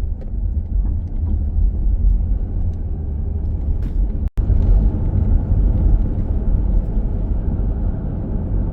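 Minivan driving along a road: steady low road and engine rumble, with a brief dropout about four seconds in.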